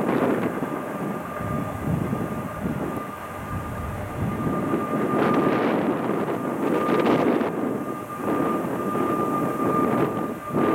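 Union Pacific double-stack intermodal train rolling past: a steady rumble of the container cars' wheels on the rails, with a thin steady high whine running through it. The sound dips briefly just before the end.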